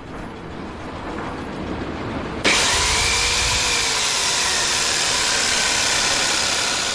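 A power tool running with a steady, loud rushing noise that jumps up abruptly about two and a half seconds in after a quieter build-up, with a faint tone rising and falling within it, easing off near the end.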